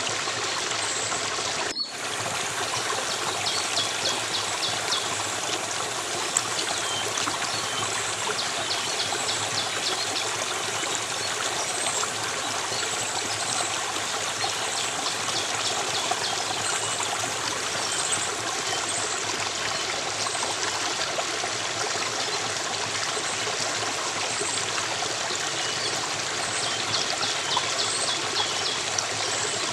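Flowing stream water: a steady rush with trickling over it. The sound cuts out for an instant about two seconds in.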